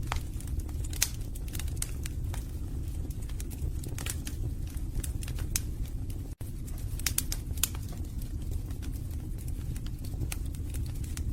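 Wood fire burning in a fireplace: a steady low rumble of flames with irregular sharp crackles and pops from the burning logs. The sound cuts out for an instant a little past the middle.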